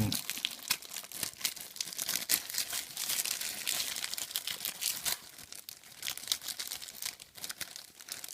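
Plastic packaging crinkling and rustling in the hands as it is handled and opened, a dense run of irregular crackles that grows fainter about five seconds in.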